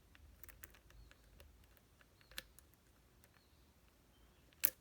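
Faint scattered metallic clicks and ticks of lock picks and a tension wrench working in a picked lock cylinder as the plug is turned back, with one sharp, loud click near the end.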